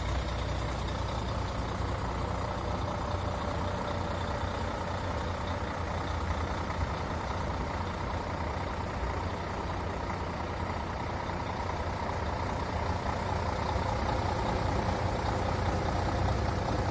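MAN TGA 26.460 truck's six-cylinder diesel engine running steadily at idle, a little louder near the end.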